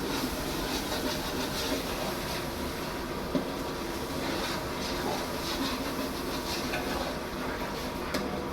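A ladle scraping and stirring in a large cooking pot, with repeated short scrapes over a steady background noise, as ground coriander fries in the oil-and-masala base.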